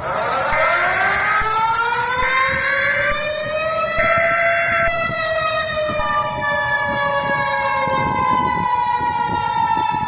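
Siren wail in the style of a civil defence siren: it winds up in pitch over about a second, then slowly falls. Three short steady beeps sound over the first five seconds, and a steady tone joins about six seconds in, as part of an emergency alarm.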